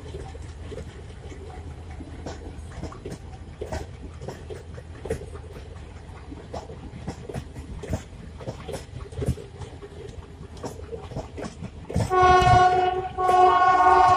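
Passenger coaches of an Indian Railways train rolling past, wheels clicking over the rail joints over a steady low rumble. About twelve seconds in, a locomotive horn sounds loudly: a short blast, then a longer one.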